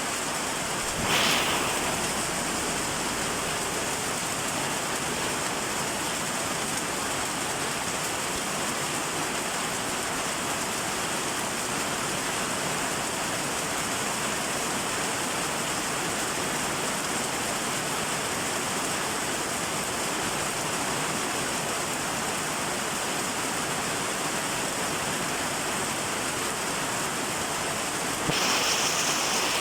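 Steady rain falling, an even hiss. A short louder swell comes about a second in, and another near the end.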